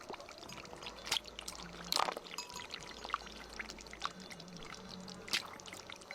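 Water trickling and pouring, with a few short splashes about one, two and five seconds in.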